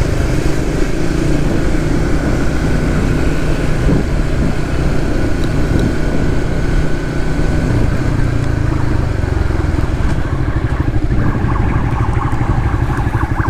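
Suzuki GSX-S150 motorcycle's single-cylinder engine running on the road, with steady wind and road noise. The engine note changes about ten seconds in.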